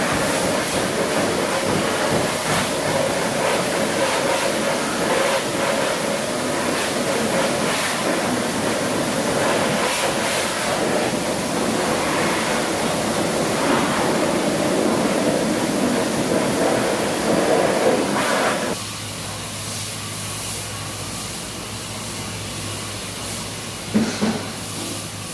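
Water spraying hard onto a car during a wash: a steady rushing spray that cuts off abruptly about three-quarters of the way through, leaving a quieter steady hum. Two short knocks come near the end.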